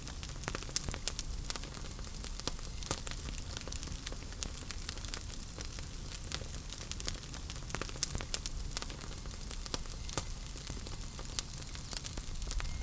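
Wood fire crackling in a fireplace: irregular sharp pops and snaps over a steady low rumble and hiss of the flames.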